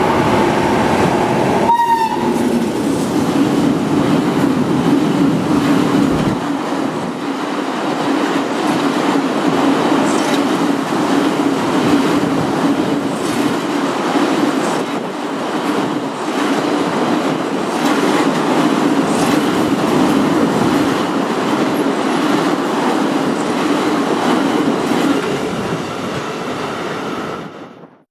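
A freight train passing at speed: the steady rumble and rattle of wagon wheels on the rails. The locomotive's horn sounds at the start and cuts off about two seconds in. The sound fades out near the end.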